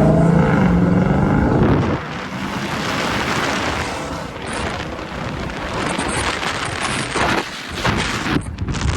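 A car engine revving hard, its pitch rising, cuts off abruptly after about two seconds and gives way to a loud rushing noise with a few dips near the end.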